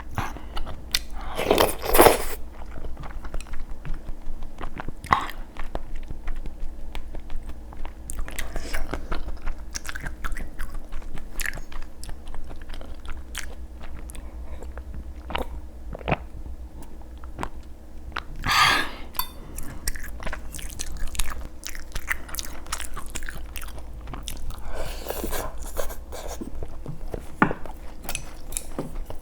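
Close-miked eating: a person chewing and biting food, with irregular crunchy bites over a faint steady hum.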